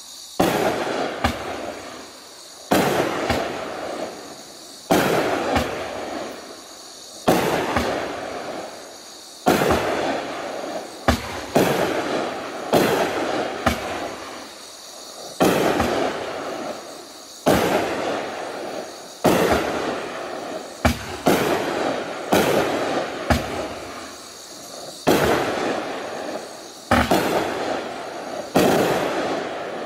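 Raging Willow 200-gram consumer fireworks cake firing a series of shots, roughly one every one to two seconds. Each is a sharp report followed by a fading crackle.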